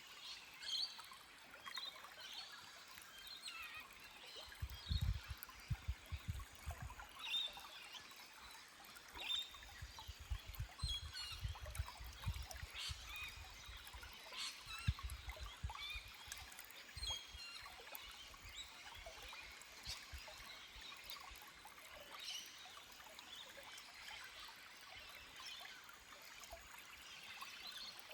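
Small forest stream trickling over rocks, with birds chirping and calling throughout. Bouts of low rumble come about five seconds in and again from about ten to sixteen seconds.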